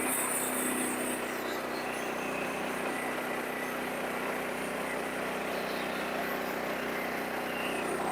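Sawmill engine running steadily, with a brief high hiss in the first second.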